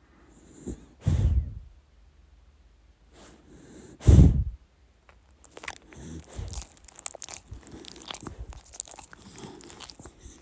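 Sleeping dachshund snoring: two short, loud snores about a second in and about four seconds in. These are followed from about five seconds in by a run of quick, irregular clicks.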